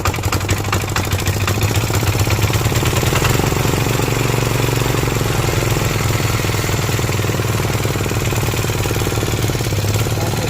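Small engine of a Kamco power ripper running steadily after servicing, with a rapid, even firing beat.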